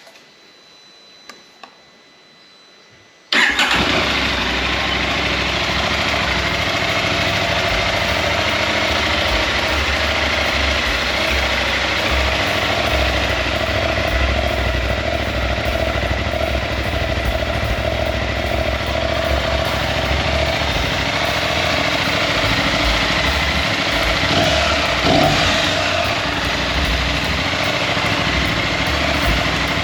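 KTM Adventure motorcycle engine starting about three seconds in, then running steadily at idle.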